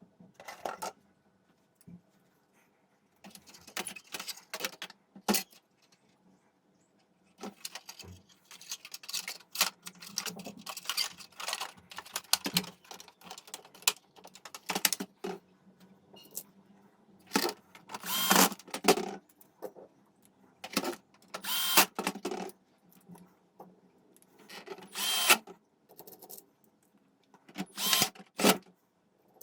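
Intermittent workbench noise from working on a hi-fi unit with tools: irregular short bursts of whirring and scraping mixed with clicks and rattles of small parts, with brief quiet gaps between them.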